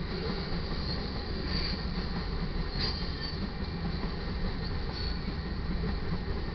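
Freight cars of a mixed manifest train rolling steadily past, the wheels rumbling on the rails, with a few brief high squeals from the wheels.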